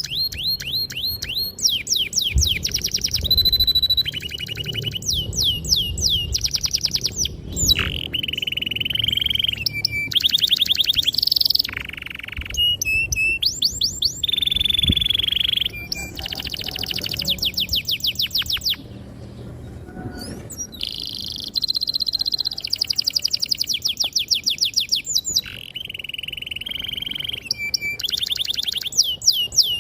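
Domestic canary singing a long, continuous song: fast trills of rapidly repeated falling notes alternating with short held whistled tones, with a brief lull about two-thirds of the way through.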